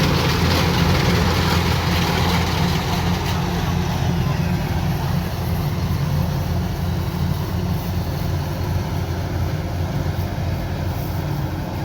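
Rice combine harvester running steadily, its engine a constant low drone.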